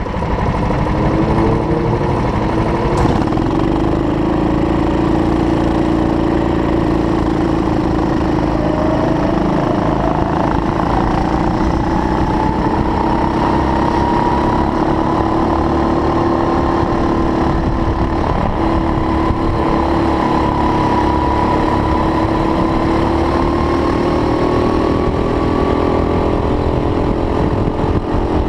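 Go-kart engines running at fairly steady speed, several engines heard together, their pitch drifting slowly up and down.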